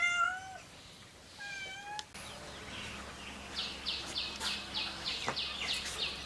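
A cat meowing: one meow right at the start and a second, shorter one at about one and a half seconds. From about three and a half seconds on, a quick run of short high-pitched chirps, about three a second.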